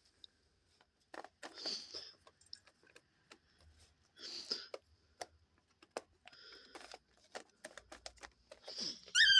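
Paper cage lining rustling and crinkling in a few short bouts, with scattered light clicks, as cockatiels move over and under it. Near the end comes a single short cockatiel chirp, the loudest sound.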